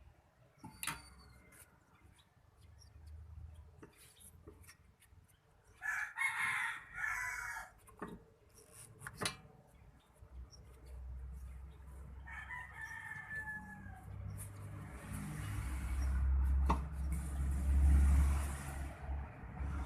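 Two pitched animal calls, like a bird's: a long one about six seconds in and a shorter, slightly falling one about twelve seconds in. Scattered clicks and knocks run between them, and a low rumble builds over the last few seconds.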